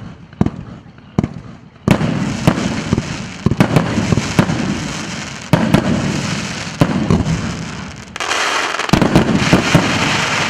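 Large multi-shot firework battery (cake) firing: a rapid series of sharp launch thuds and aerial bangs that grows denser, with a thick barrage of bursts near the end.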